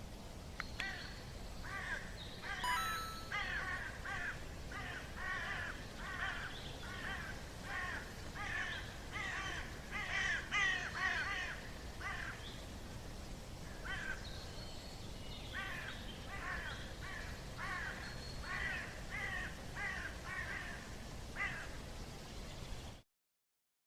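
Forest birds calling over and over in a rapid series of short calls that slide downward in pitch, roughly two a second, with a lull in the middle, over a steady low background noise. The sound cuts off suddenly near the end.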